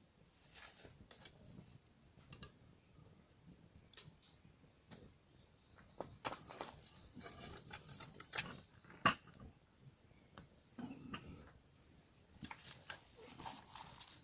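Wood bonfire crackling and popping at irregular intervals, with one sharper pop about nine seconds in.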